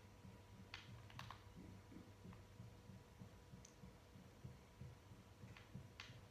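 Near silence with a faint low rumble and a few soft, scattered clicks, the clearest a small cluster about a second in and two near the end.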